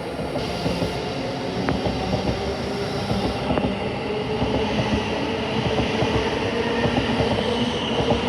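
Thameslink Class 700 electric multiple unit coming into the platform, its traction equipment giving off steady whining tones over the rumble of wheels on rail, with a few sharp clicks from the wheels.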